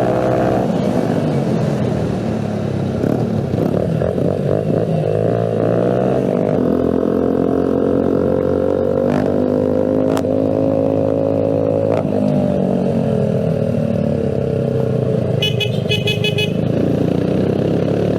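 Keeway CR152 motorcycle engine and exhaust running at speed, the pitch rising and falling several times as the throttle and gears change. Near the end a horn sounds in a quick run of short beeps.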